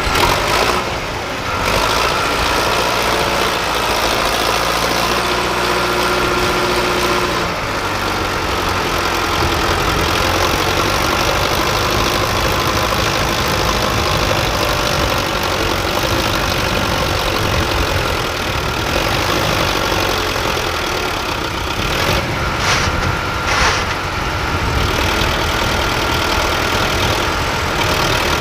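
Sonalika DI 750 RX tractor's diesel engine running steadily.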